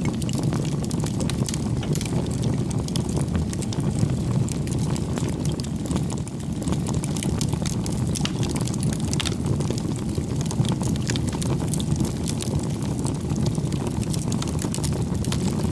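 Campfire burning with a steady low rumble and many small crackles and pops from the burning wood.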